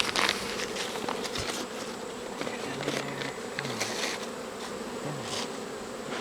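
Honeybees buzzing around an opened hive: a steady hum from the colony, with single bees droning close by a few times.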